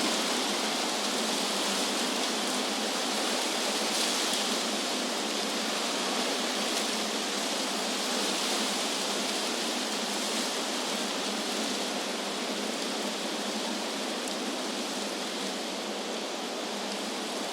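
Wind blowing through trees: a steady rushing hiss of moving leaves.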